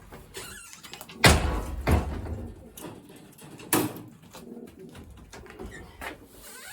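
Racing pigeons cooing in a loft, with a few sharp knocks and clatters from handling, the loudest just over a second in and others about two and four seconds in.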